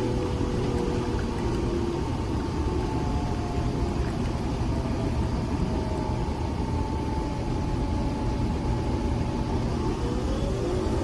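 Nespresso Vertuo Next running a brew cycle: a steady motor hum and rumble with faint whining tones that drift in pitch and rise near the end.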